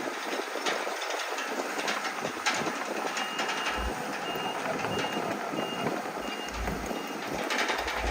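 Dump truck's reversing alarm beeping at an even pace, about one and a half high-pitched beeps a second, starting about three seconds in, over the running of heavy machinery with scattered knocks of stone.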